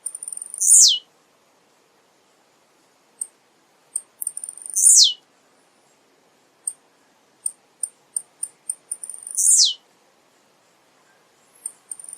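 Male blue-black grassquit (tiziu) singing its short song three times, about every four to five seconds. Each song is a few quick high ticks followed by a loud buzzy note that falls sharply in pitch.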